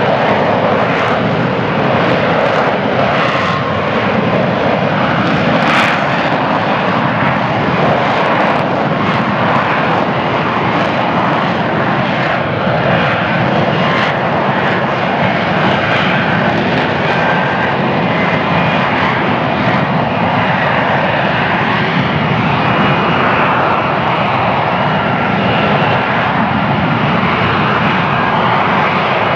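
F-35B Lightning II hovering: its F135 jet engine and shaft-driven lift fan give a loud, steady roar, with faint whining tones that waver slightly in pitch.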